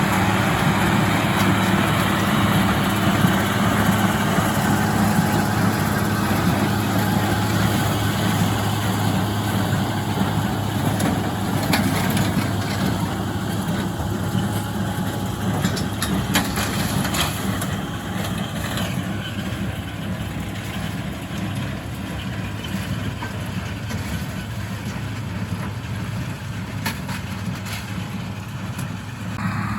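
International Harvester 886 diesel tractor running steadily under load, pulling a John Deere 348 square baler whose machinery clatters along with it. A run of sharp clicks and rattles comes about halfway through, and the whole sound eases off slightly after that.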